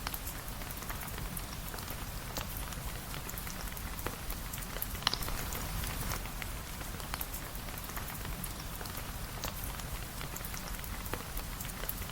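Steady rain with a low rumble underneath and scattered sharp ticks of drops or crackles, one louder pop about five seconds in.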